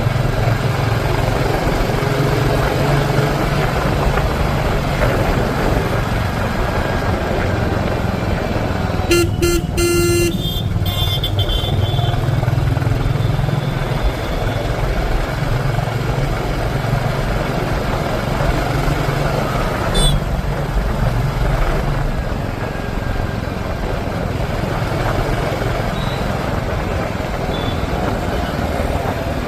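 Royal Enfield motorcycle engine running steadily on the road, with road and wind noise. A vehicle horn honks briefly about a third of the way in.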